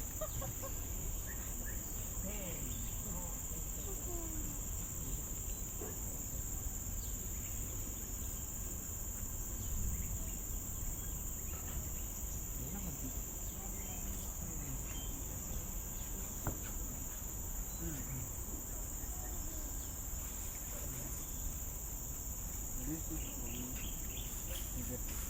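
Steady, high-pitched drone of an insect chorus, unbroken and even throughout.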